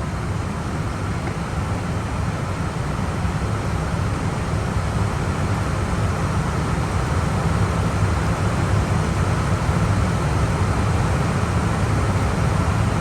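Steady rumble and airflow noise inside an Airbus A320 cockpit in descent, heaviest in the low end and growing slightly louder toward the end.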